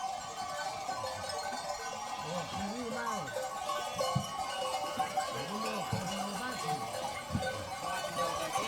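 Bells on a herd of goats clinking and ringing without a break, with a few short low calls rising and falling over them.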